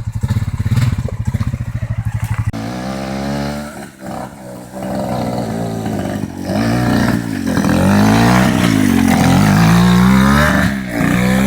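ATV engine running steadily at a low, pulsing note, then from about two and a half seconds in revved up and down repeatedly, with the revs highest and loudest near the end.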